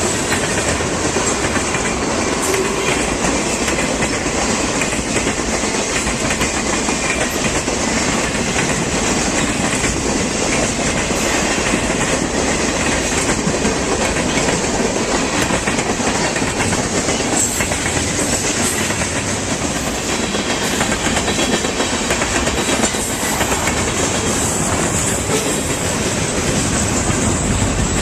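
A train rolling past along the track, a steady, unbroken loud noise of its cars on the rails with faint clicks here and there.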